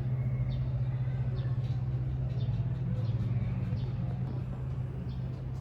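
A machine running with a steady low hum, with light ticks recurring roughly every half second.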